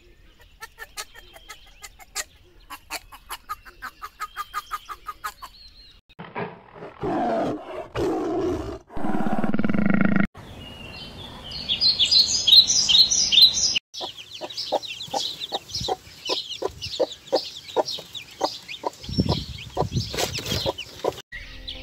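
A sequence of animal calls: a chipmunk giving a fast run of short chirps, about five a second, then a tiger growling for a few seconds, then high chirping. From about fourteen seconds in, chickens give quick repeated clucks and peeps.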